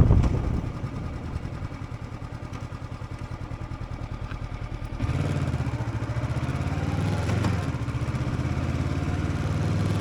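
Motorcycle engine ticking over with an even, rapid pulse. About halfway through it steps up to a louder, steadier run as the revs rise.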